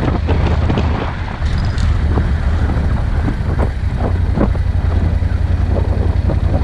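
Vehicle driving over a rough unpaved dirt road: a steady low rumble of engine and tyres with frequent knocks and rattles from bumps, and some wind noise on the microphone.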